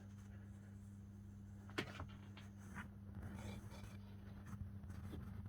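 Low steady hum with a few faint clicks, one sharper click about two seconds in.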